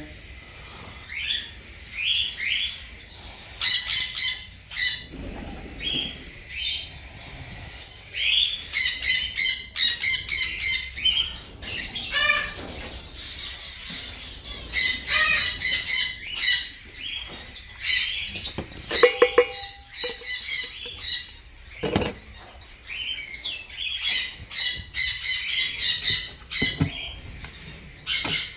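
A flock of small parrots screeching in repeated bursts of shrill, rapid chattering squawks every few seconds, calling for their food.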